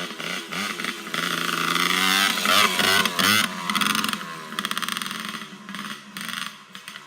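ATV (four-wheeler) engine revving up and down as it approaches and passes. It is loudest about halfway through, then fades as it moves away.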